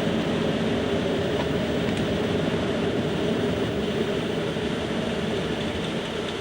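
Steady rushing airflow noise on Concorde's flight deck at about 250 knots, with the nose and visor lowered. It eases slightly near the end as the nose and visor are raised to streamline the aircraft.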